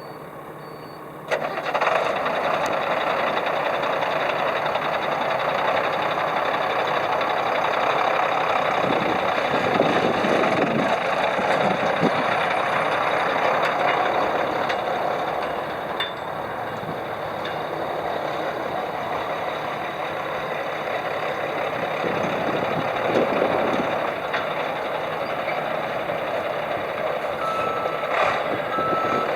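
The 1995 International 4900 flatbed truck's diesel engine starts about a second in and keeps running. Near the end a steady, repeating reversing beeper starts up.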